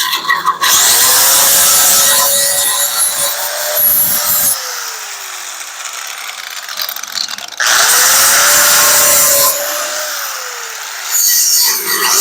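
Electric grinder grinding welded-on dent-puller studs off sheet metal. It spins up and grinds for about four seconds, then coasts down with a falling whine. It does this again about eight seconds in and starts up a third time near the end.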